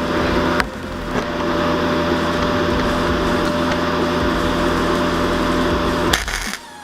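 A small power tool running steadily in the workshop, a machine whine with a grinding hiss, stopping about six seconds in.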